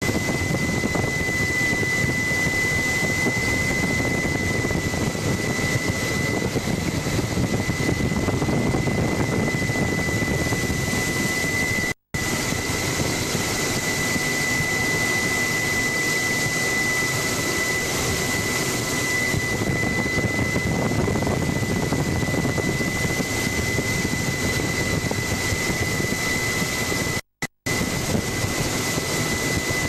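Helicopter in flight, heard from on board: a steady engine and rotor noise with a constant high-pitched whine over it. The sound drops out for a moment about twelve seconds in and twice more near the end.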